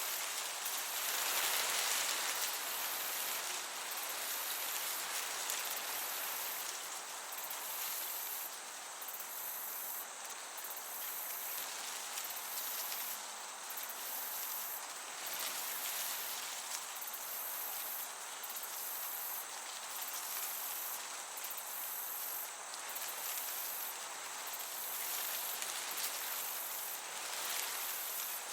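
Meadow crickets chirring high and steady, broken by brief pauses every second or two, over a soft breeze hiss that swells and eases.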